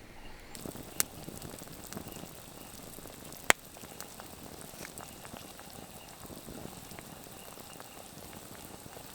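Campfire crackling under a pot of stew bubbling on it, with many small ticks and two sharp pops, one about a second in and a louder one about three and a half seconds in.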